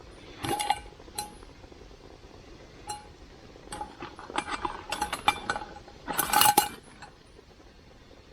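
Metal camp cookware and utensils clinking and knocking together in several short clusters, some hits leaving a brief ringing note. The loudest clatter comes about six seconds in.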